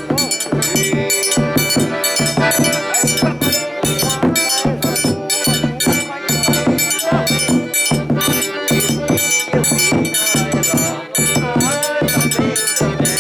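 Forró pé-de-serra played live: a steady low drum beat about twice a second, bright high percussion strokes through it, and a melody over the top.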